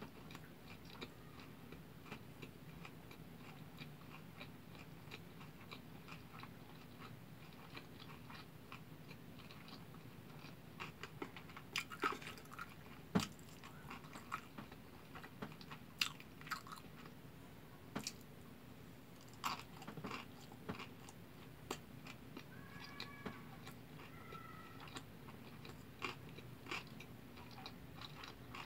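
Close-miked chewing of a mouthful of kimbap (seaweed-wrapped rice roll), with sharp wet clicks and smacks scattered through it, busiest in the middle, over a steady low hum.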